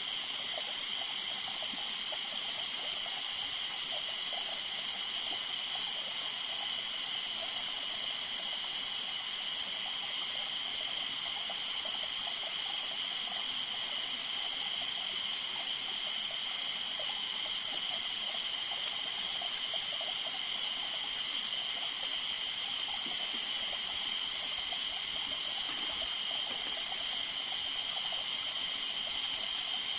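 Steady, high-pitched rainforest ambience, an even hiss that holds without a break.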